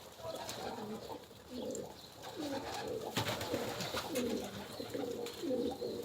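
Domestic pigeons cooing repeatedly, overlapping low warbling calls, with a few soft clicks.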